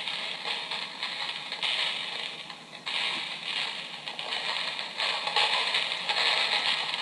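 Recorded 'rattling chains' sound effect played from a Halloween sound-effects box's built-in speaker: metal chains clinking and rattling in several uneven swells, with no deep bass.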